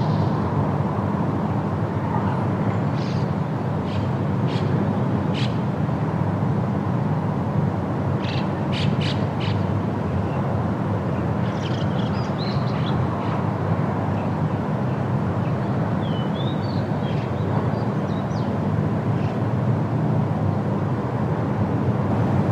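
Steady wind with a deep, even rumble, with short high bird chirps scattered through and a brief warbling call about two-thirds of the way in.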